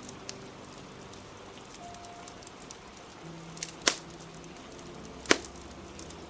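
Steady rain with a crackling fire: scattered small clicks and two sharp pops about four and five seconds in. Soft background music notes are held underneath.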